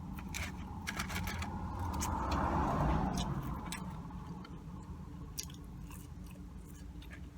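A person chewing fast food close to the microphone, with biting, crunching and wet mouth clicks.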